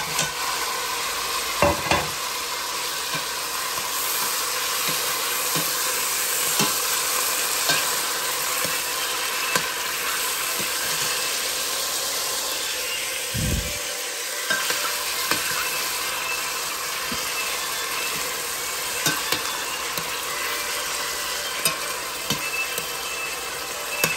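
Sliced mushrooms and onion sizzling in hot melted margarine in a stainless steel pot. A metal spoon stirring them clicks and scrapes against the pot now and then, with a low bump about halfway through.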